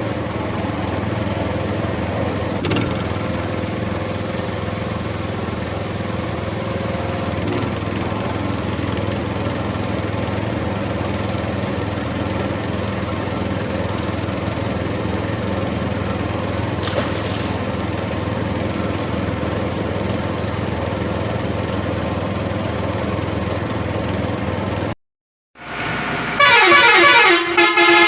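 A small toy motor whirring steadily. After a sudden cut it is followed by a loud electronic toy horn sounding in a series of changing tones.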